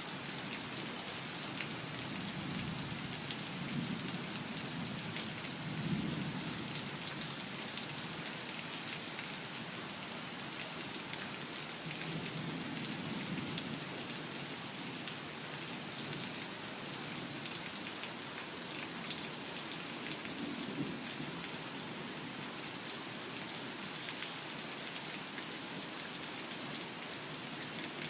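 Heavy rain falling steadily, with sharp ticks of single drops striking close by. Low rumbles of thunder swell up a few times beneath the rain.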